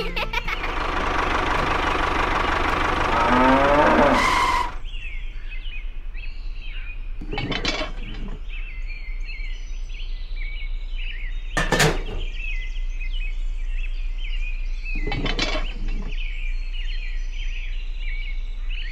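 A loud rushing noise with rising sweeps that cuts off suddenly about four and a half seconds in, then birds chirping steadily in the background. Over the chirping come three short plastic knocks, about four seconds apart, as a small plastic toy water pump is picked up and set down on a toy tractor trolley.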